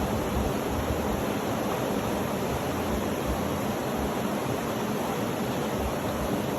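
Steady, even rushing noise from a sleep-sound track, unchanging throughout, with no distinct events.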